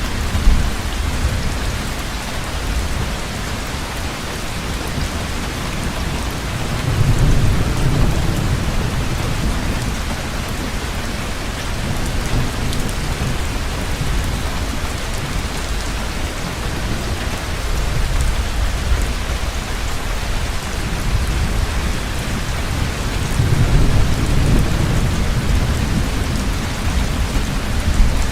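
Heavy, steady rain with two low rolls of thunder, one about seven seconds in and another about three-quarters of the way through.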